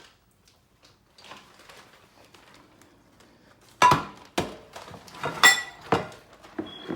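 Dishes and kitchen utensils being handled: after a few seconds of faint rustling, a run of sharp knocks and ringing clinks starting about four seconds in, about five in all.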